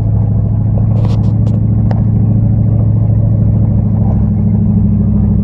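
Dodge Ram pickup's engine running steadily at low speed on a steep, rough descent, with a few brief clicks about a second in.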